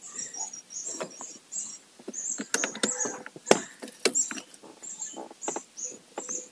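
Small birds chirping in short, high notes repeating a few times a second, with scattered sharp clicks and knocks, the loudest about halfway through.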